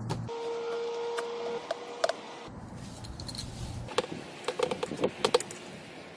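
Sharp clicks and taps of hand tools and hard parts being handled, with a brief steady squeak about half a second in and a quick run of clicks near the end.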